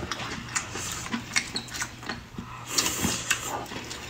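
Close-miked eating sounds: wet chewing and lip smacks of beef tripe, with many small irregular clicks.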